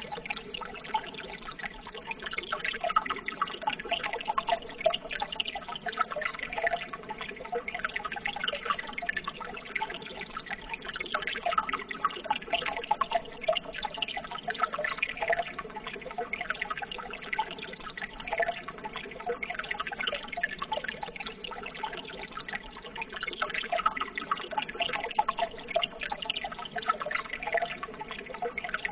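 Running water: a steady babbling trickle made of many small splashes and drips.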